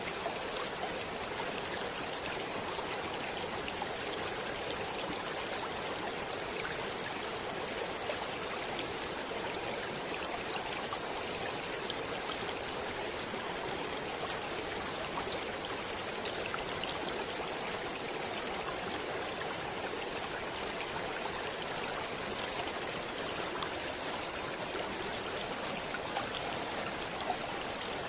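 Stream water flowing steadily, an even rushing and babbling with little low rumble and small scattered splashing ticks.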